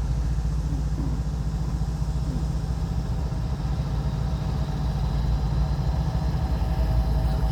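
Freight train rolling slowly past, a steady low rumble with a diesel-engine throb.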